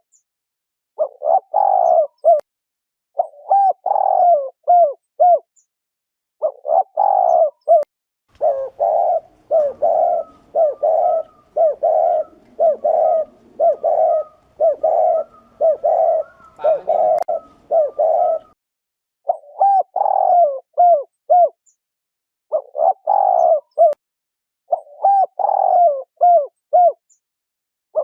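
Spotted dove cooing: short phrases of a few coos separated by pauses, then a steady run of about a dozen evenly paced coos lasting some ten seconds (the 'gù' display coo), then short phrases again.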